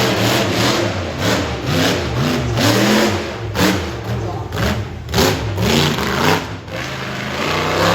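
Monster truck engine revving hard over and over, its pitch rising and falling in quick arcs with several sharp loud peaks.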